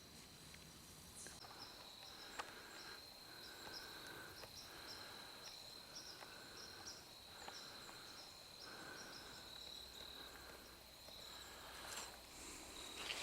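Faint evening insect chorus: a steady high trill runs throughout, with a pulsing call repeating about once a second. A few light clicks, most of them near the end.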